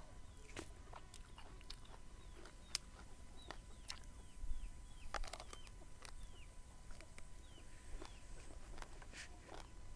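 Close-up biting and crunchy chewing of a fresh eggplant slice, with scattered sharp clicks and crackles.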